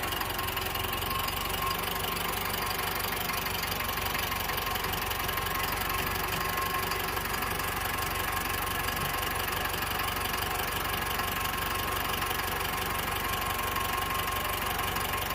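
A motor or engine running steadily at an even speed, with a fast, regular pulsing and no change in pitch.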